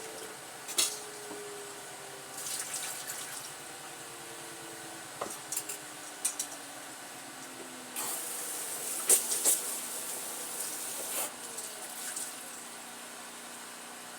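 Water running at a kitchen sink as a bowl and carrots are rinsed, with scattered light knocks of the bowl. The water gets louder for a few seconds from about eight seconds in.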